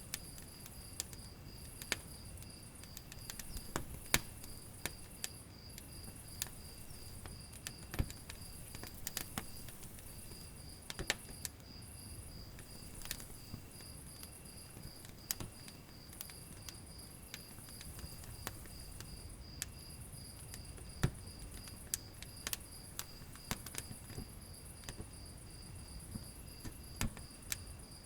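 Wood fire in a fireplace crackling, with irregular sharp pops of varying loudness. Under it runs a continuous high-pitched, rapidly pulsing insect-like trill.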